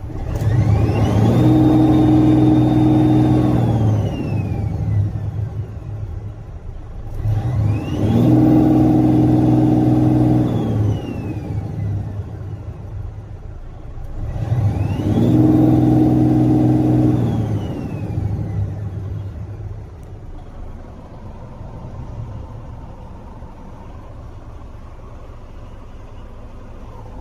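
Truck engine revved three times, each time rising, held for about two seconds and dropping back, with a whine that rises and falls with each rev; after the third rev it settles into a steady idle.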